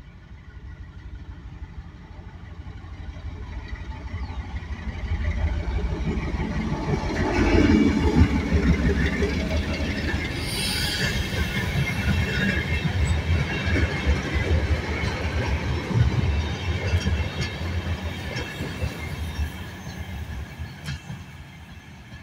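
A CRRC CDD3A1 diesel-electric locomotive approaches and passes hauling a short freight train, its engine loudest about eight seconds in. The wagons then roll by with wheel clatter and a brief high squeal, and the sound fades near the end.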